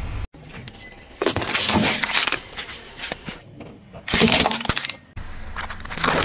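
Things crunching and cracking under a car's tyres as it drives over them, in separate short bursts: one cluster of sharp cracks a little over a second in and another about four seconds in.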